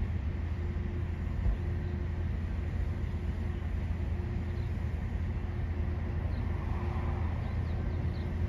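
Steady low rumble of a distant train, with a few faint short chirps of birds over it.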